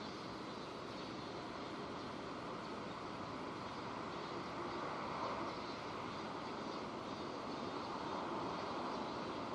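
Steady rain falling, an even hiss, with a broad rumbling noise swelling slightly underneath about halfway through.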